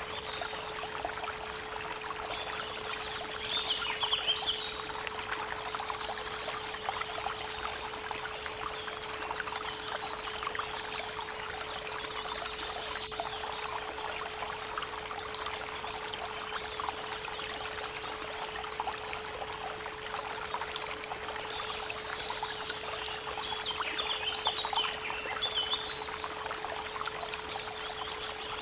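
Creek water babbling steadily, with a continuous 432 Hz pure tone beneath it. Birds sing short chirping phrases about three seconds in and again later, over a couple of seconds, with a brief quick trill of high notes twice.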